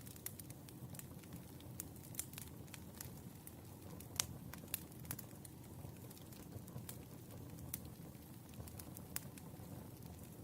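Firewood burning: a steady low rumble of flames with irregular sharp crackles and pops, the loudest pop about four seconds in.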